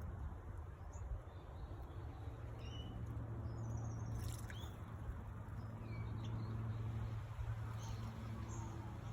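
Birds giving scattered short, high chirps and calls, over a steady low hum.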